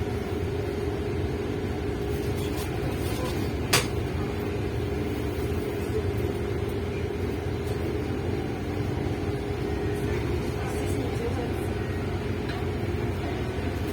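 A MAZ-215 articulated city bus under way, heard from inside the cabin: a steady engine and road rumble with a constant hum, and a single sharp click about four seconds in.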